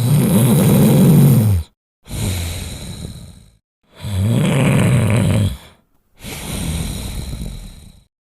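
Sleeping Labrador retriever snoring in two breath cycles. Each cycle is a loud, rough snore lasting under two seconds, followed by a quieter breath that fades away.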